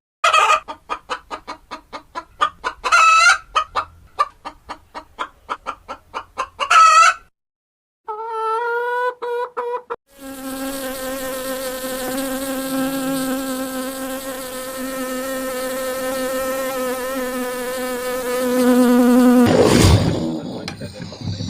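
Chickens clucking in quick short notes, with two brief crows, then a separate call, followed by a long steady insect buzz lasting about nine seconds. A loud sudden whoosh comes near the end.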